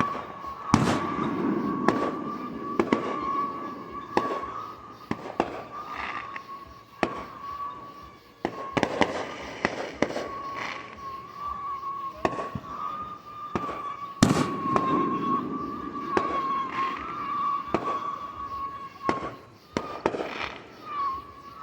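Fireworks going off: many sharp bangs at irregular intervals, some followed by a spell of crackling, over a steady, slightly wavering high tone.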